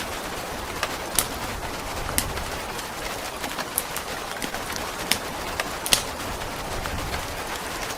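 Steady rain hiss with a wood fire crackling: a sharp pop every second or so.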